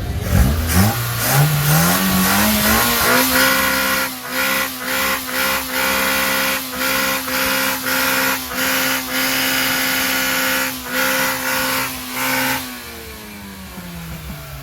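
Tuned car engine revved up over about three seconds, then held at a fixed high rev. It cuts in and out about twice a second with pops and crackles from the exhaust, and near the end the revs fall away.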